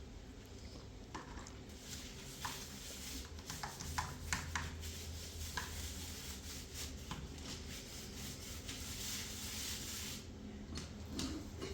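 Scattered light knocks and clicks with rubbing, like things being handled and scraped, over a steady low hum.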